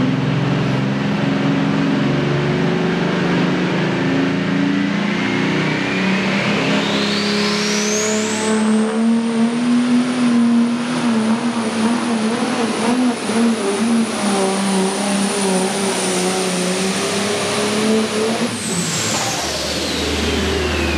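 Pro stock pulling tractor's turbocharged diesel engine running hard under load during a pull. A whistling turbo whine climbs over a few seconds to a very high pitch, holds there for about ten seconds, then falls away near the end.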